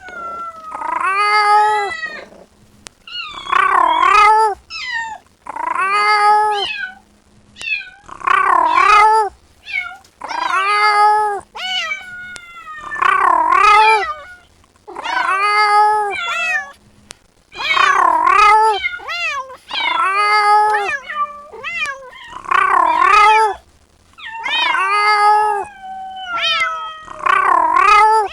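Kitten meowing loudly and insistently, calling for its mother: one drawn-out meow with a bending pitch roughly every two seconds.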